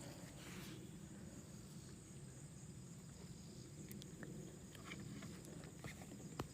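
Faint steady chirring of insects, like crickets, with a light click near the end.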